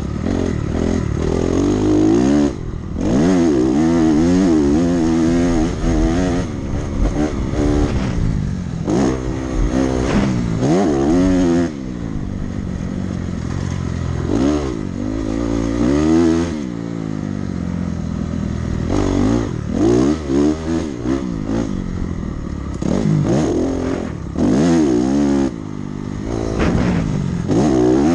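Dirt bike engine ridden hard around a motocross track, revving up and falling back again and again as it is worked through the gears, with the throttle chopped off briefly several times.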